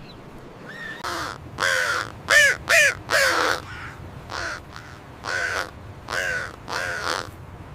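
A bird calling about ten times in a loose series, each call short with a rough pitched tone, the loudest calls in the middle.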